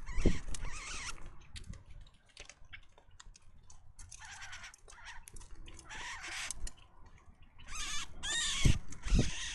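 Birds at a backyard feeder giving harsh, noisy calls in several bursts, with scattered clicks and a few low thumps just after the start and near the end.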